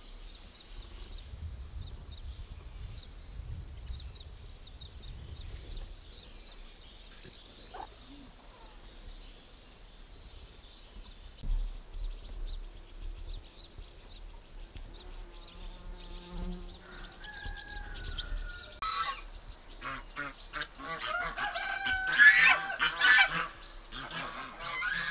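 Birds calling. Quick, repeated high chirps come in the first few seconds, then louder, harsher calls from about halfway, loudest shortly before the end.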